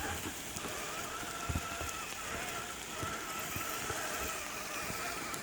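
Steady rain falling, with a faint wavering high whine running through it and a few soft low thumps, the strongest about a second and a half in.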